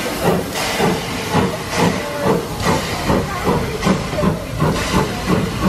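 Steam tank locomotive working under steam, its exhaust chuffing in a steady rhythm of about two to three beats a second, with steam hissing.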